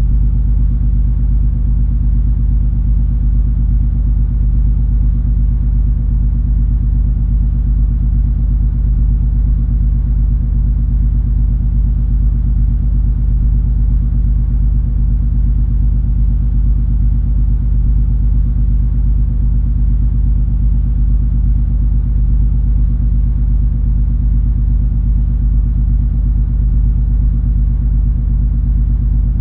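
MS Color Fantasy cruise ferry under way: a steady, deep rumble of its engines carried through the hull, with a low, even hum and no change in level.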